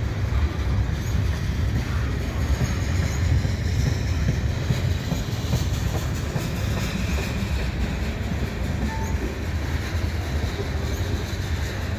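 Freight cars of a slow-moving mixed freight train rolling past, a lumber-loaded centerbeam flatcar and then two-bay covered hoppers: a steady low rumble of steel wheels on rail with light clatter and a few faint, brief squeals.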